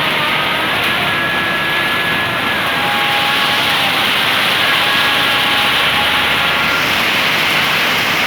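Steady hiss of heavy rain, with a few faint held tones underneath that change pitch now and then.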